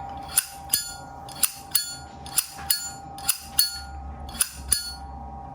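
Vintage Zippo lighter's hinged lid snapped open and shut over and over: about a dozen sharp metallic clacks, each with a short bright ring. This is the lid sound that collectors listen to when judging a Zippo.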